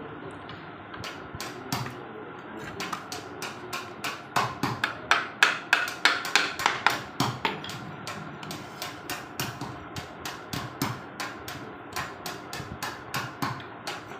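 Hammer knocking on a rohida wood frame during carpentry, a fast run of sharp blows at about three a second, with the heaviest strikes in the middle.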